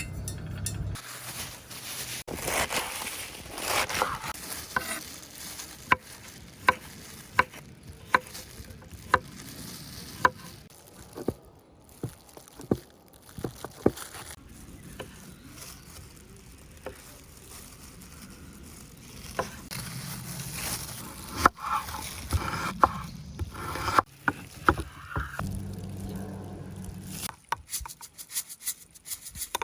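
Irregular sharp knocks, often one or two a second, mixed with scraping and rustling.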